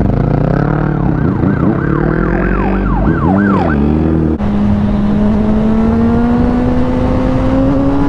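An emergency vehicle's siren yelping, a fast up-and-down wail repeating a few times a second, over the steady running of a Honda CBR600RR's inline-four engine. A little after four seconds in the siren stops and the engine note rises slowly and evenly.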